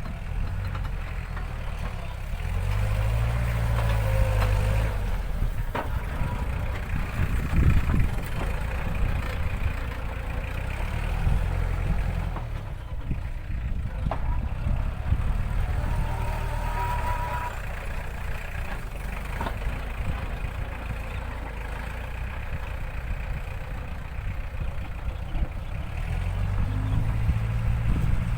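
Iseki NT554 tractor's diesel engine running steadily while working, its note rising and falling a few times, with occasional clanks.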